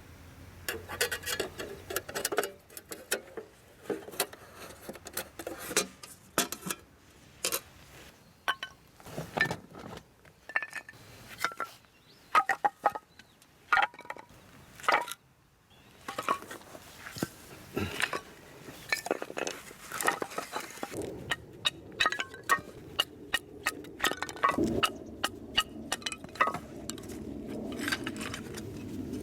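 A string of irregular clicks, knocks and clinks of hard objects being handled, some ringing briefly.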